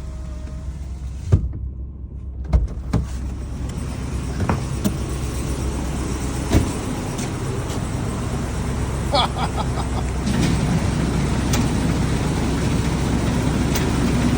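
Ram 2500 pickup truck's engine running at low speed as the truck backs slowly, with a few sharp clicks and knocks in the first seven seconds and a brief squeak about nine seconds in. The engine gets louder from about ten seconds in.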